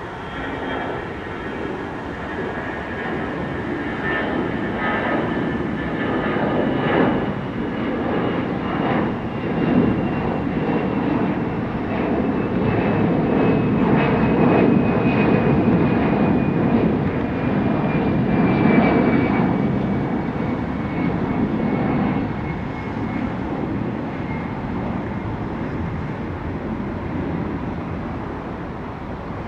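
Jet airliner's engines heard as it passes on departure: the noise swells to a peak around the middle and eases off toward the end, with a high whine that slowly falls in pitch.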